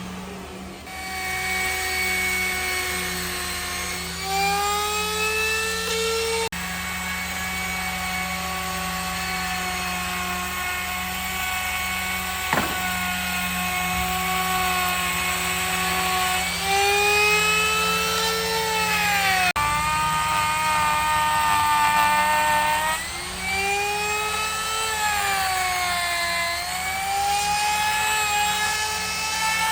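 A machine's motor running continuously with a pitched whine that sags and recovers every few seconds, as under changing load, over a steady low hum; a single sharp tick about halfway through.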